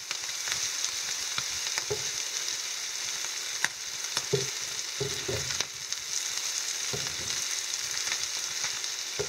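Shrimp and garlic sizzling steadily in oil in a frying pan on lowered heat, stirred with a wooden spatula that scrapes and clicks against the pan now and then, with a few short low knocks.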